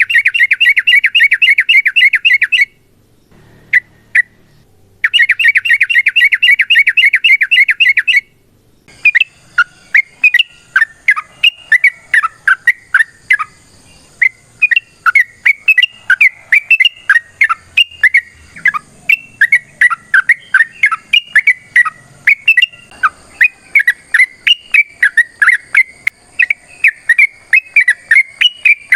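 Yellow-vented bulbul (trucukan) singing loudly in an agitated 'fighting' mood. It gives two fast, dense trills a few seconds apart, then a long run of quick, bubbly chattering notes that rise and fall.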